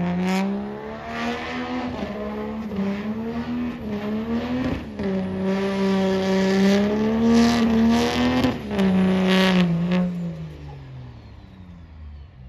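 Truck engine held at high revs during a burnout, its pitch wavering up and down with a few sharp cracks. About ten seconds in the revs fall away and it quietens.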